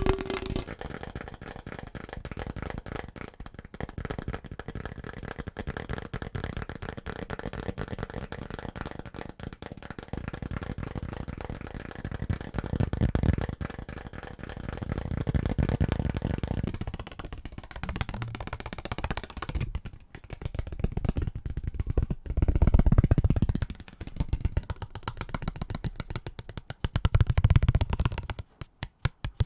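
Very fast, aggressive tapping on assorted household objects, a dense run of quick taps that switches abruptly to a different object several times.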